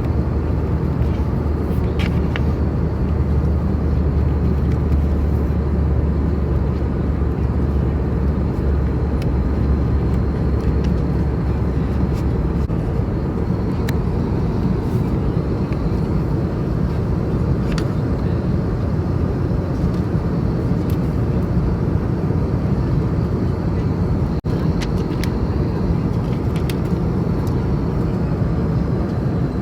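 Steady cabin noise inside an Airbus A320neo in flight: a continuous rumble of engines and airflow, with a deep hum that weakens about twelve seconds in. A few faint clicks sound now and then.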